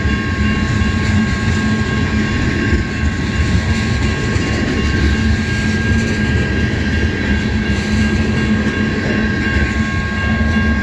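Freight train tank cars rolling steadily past at a grade crossing: a continuous rumble of steel wheels on the rails, with two steady high tones running above it.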